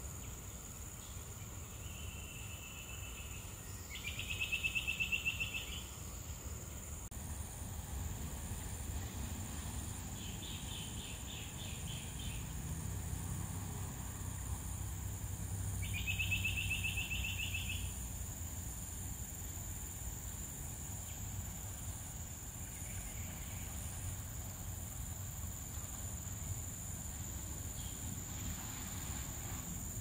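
A bird's rapid trilled calls, three of them, preceded by a short steady note, over a steady high-pitched insect drone. The first trill is the loudest.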